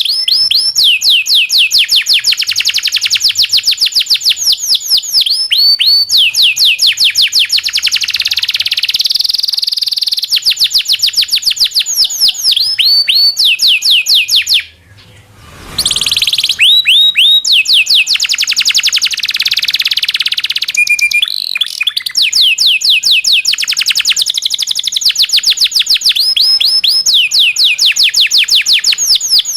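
Local canary singing long rolling trills of rapid repeated notes. It stops for about a second halfway through, then goes straight back into the trills.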